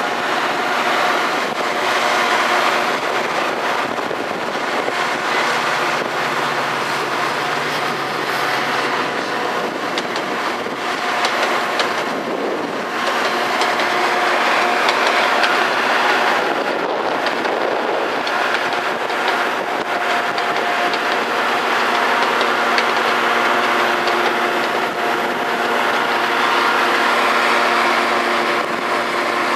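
Metra commuter train rolling past: continuous noise of wheels on rails and the passing cars, steady throughout, with a few faint steady tones running through it.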